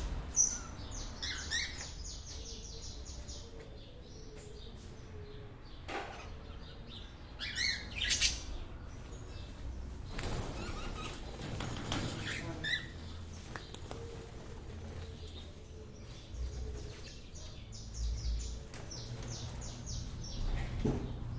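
A flock of birds chirping, with fast runs of high chirps about half a second in and again near the end, and scattered calls between them, over a low steady rumble.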